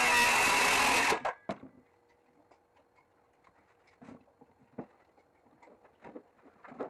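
Jigsaw cutting through a panel, stopping abruptly about a second in, followed by a quiet stretch with scattered light clicks and knocks.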